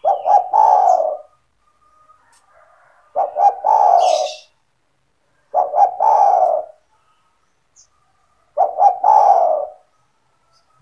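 Spotted dove (tekukur) cooing: four phrases spaced about two to three seconds apart, each a couple of quick short notes running into a longer coo.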